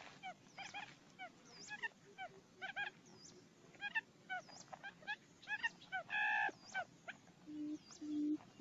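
Quail calls used as a trapping lure: a rapid, irregular series of short upswept chirps, with a longer held call about six seconds in. A low, evenly pulsed hooting begins near the end.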